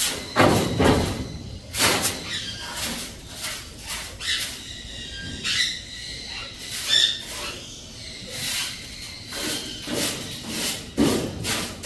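Birds moving about: irregular rustling and knocking noises, with a few brief high bird calls about five to seven seconds in.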